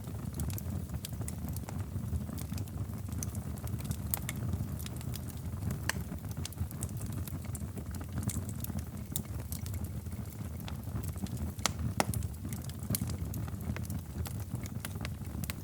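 Fireplace fire crackling: a steady low rumble of flames with scattered sharp pops and snaps, one louder pop about twelve seconds in.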